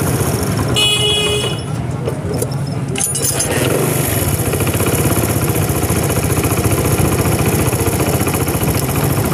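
Honda CD70's small single-cylinder four-stroke engine running after a head and timing-sprocket repair, settling into steady, even firing after about three and a half seconds. A brief high-pitched whine comes about a second in. The engine note is one the mechanic calls excellent, with no tick or tappet noise.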